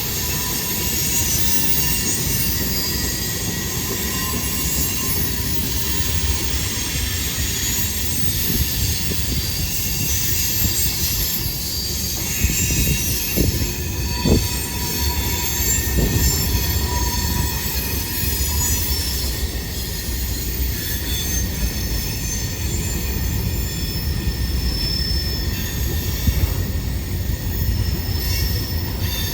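Train cars rolling past, their steel wheels squealing against the rail in several high held tones over a steady low rumble.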